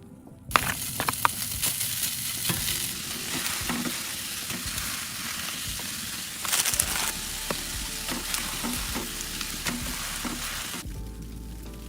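Food frying in a hot pan: a steady, crackling sizzle with many small pops and spatters. It starts suddenly about half a second in and cuts off suddenly near the end.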